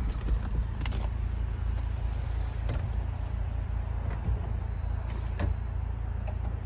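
2016 Buick Cascada's power soft top folding down as the button is held, with a steady low motor hum and scattered light clicks and knocks from the mechanism.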